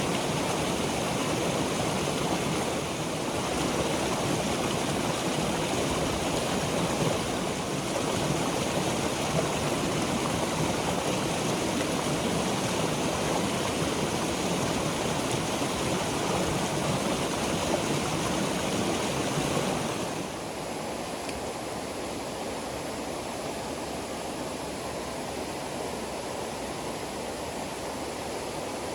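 Steady rushing of water. About two-thirds of the way through it drops a little in level and turns thinner and hissier.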